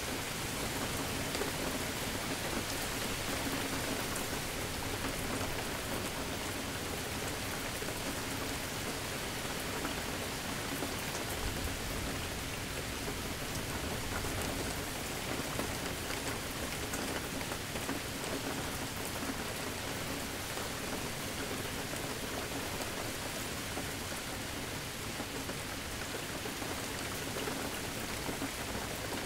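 Steady rain falling and pattering on surfaces, a constant even hiss during a thunderstorm.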